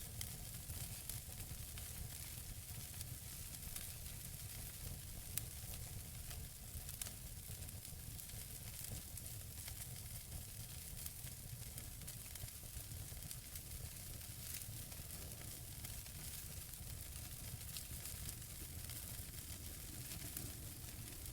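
Wood fire burning in a fireplace: a steady soft hiss of burning logs with frequent small crackles and pops, two sharper pops about five and seven seconds in.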